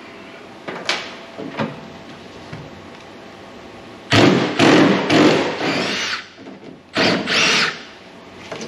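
Power drill running in two bursts, about two seconds and then about a second, with a whine, as self-tapping sheet-metal screws are backed out of the cab; a few light knocks come before.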